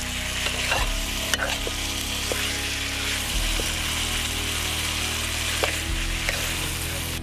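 Chicken pieces sizzling in hot masala in a metal pan as they are stirred, with a steady frying hiss and a few sharp scrapes and clicks of the spoon against the pan.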